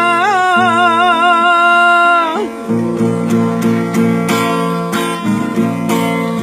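A man's singing voice holds a long note with vibrato that ends about two and a half seconds in, and acoustic guitar strumming carries on through.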